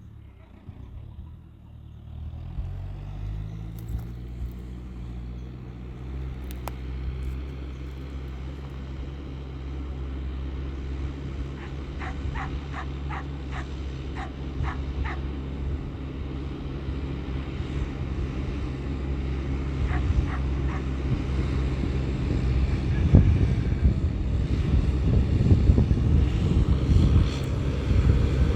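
New Holland TL100 diesel tractor engine rising in pitch about two seconds in, then running steadily under ploughing load, growing louder toward the end as it draws nearer.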